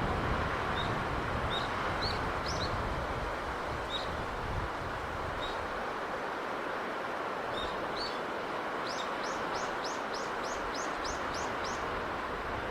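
Steady hiss of sea breeze, with a low rumble that fades about halfway through, and small birds chirping now and then; near the end a bird gives a quick run of about a dozen chirps, roughly four to five a second.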